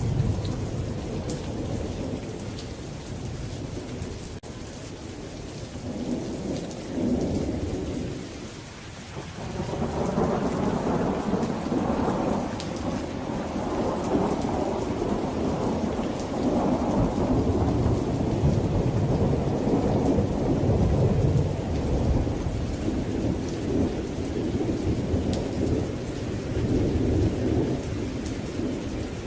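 Thunderstorm: steady rain hissing and pattering, with thunder rumbling low and long, swelling about a third of the way in and rolling on loudly to the end.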